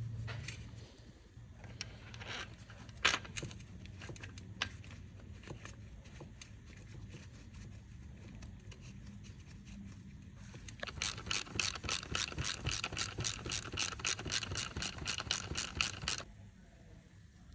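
Hand-tool work on a car engine: scattered clicks and knocks, then about five seconds of fast, even strokes at roughly six a second that stop suddenly near the end.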